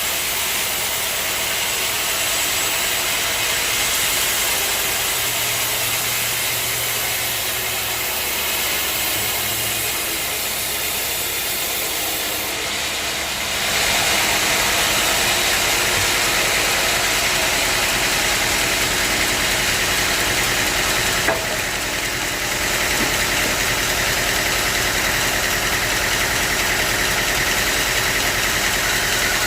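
Sawmill machinery running steadily, a continuous engine-like drone with hiss. It gets louder about halfway through, with one brief click later on.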